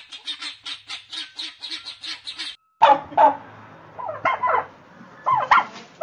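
Helmeted guinea fowl calling a rapid, even run of harsh notes, about five a second, which breaks off about two and a half seconds in. After a short gap, a domestic turkey gives louder calls in separate bursts.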